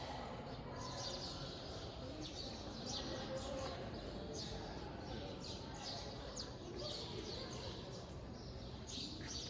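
Many small birds chirping in short, high calls, over and over, with a low murmur of voices behind them.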